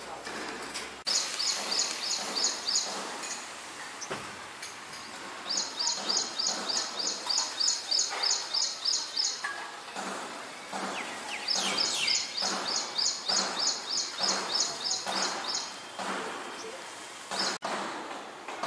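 A small bird calls in quick series of high chirps, about six or seven a second, in three runs with pauses between. From about halfway through there are soft knocks about twice a second.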